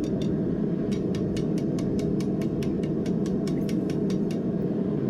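Steady low rumble of workshop background noise with a fast, even run of light clicks, about five a second, that pauses for about the first second.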